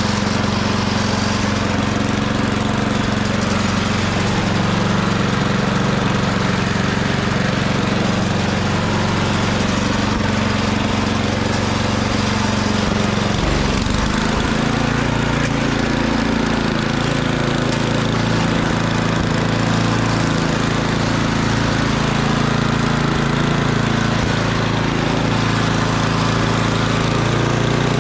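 Murray Ultra 8/27 snowblower's 8 hp engine running steadily. About halfway through its note dips briefly and then settles at a slightly different pitch, as if taking on and shedding load.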